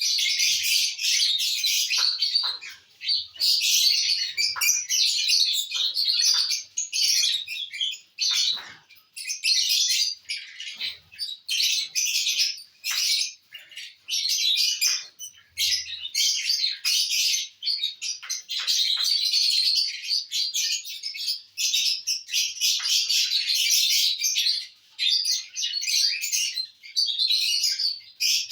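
Lovebirds chattering: a dense stream of rapid, high-pitched chirps with a few short pauses.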